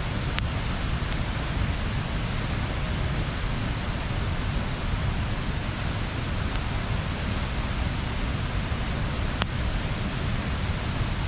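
Wood bonfire burning with a steady rushing hiss and low rumble, broken by a few sharp pops of crackling wood, the clearest about nine seconds in.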